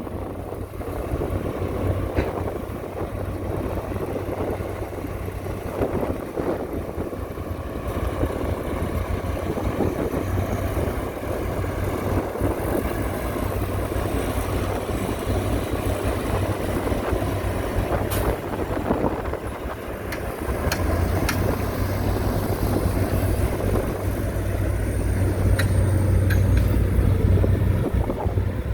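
Diesel engine of heavy earthmoving machinery running with a steady deep hum, growing louder about two-thirds of the way through, with a couple of brief sharp knocks.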